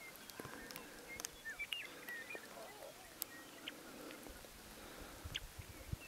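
Faint, scattered bird chirps and short whistled calls over a quiet open-air background, with a low rumble on the microphone starting about four seconds in.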